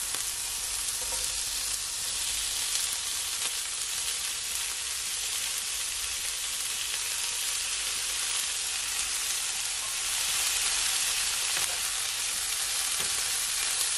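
Mixed vegetables sizzling steadily in hot oil with onions and garlic in a cast-iron skillet. A spoon stirs them near the end.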